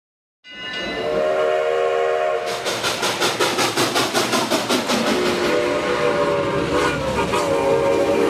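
A train whistle sounds a held chord, then a locomotive chugs in a steady rhythm, and the whistle sounds again about five seconds in.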